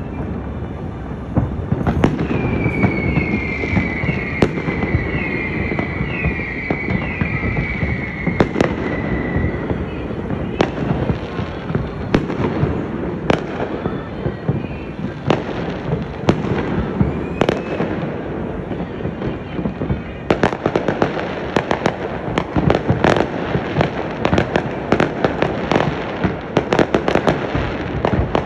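Fireworks display: a continuous rumble of bursts punctuated by sharp bangs. A run of several overlapping falling whistles comes in the first third, and from about two-thirds of the way in a dense, fast crackle of many pops.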